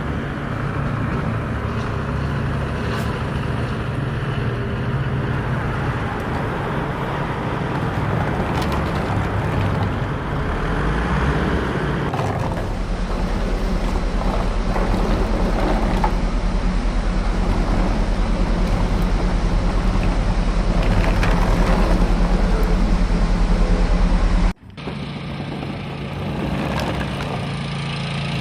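An engine running steadily, growing deeper and slightly louder about halfway through. It breaks off abruptly for a moment near the end, then resumes.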